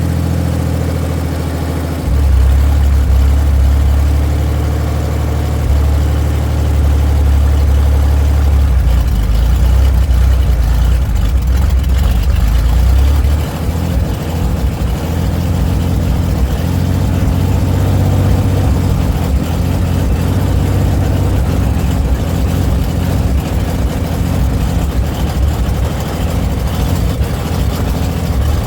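2001 Oldsmobile Bravada's 4.3-litre V6 running with no oil, no coolant and no exhaust system, a loud steady drone. It gets louder about two seconds in and falls to a lower, rougher note about thirteen seconds in, the engine starved of oil and overheating.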